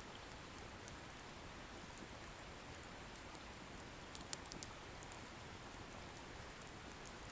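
Firewood bonfire burning with a soft steady hiss and sparse faint crackles, with a few sharper pops of the wood a little past halfway.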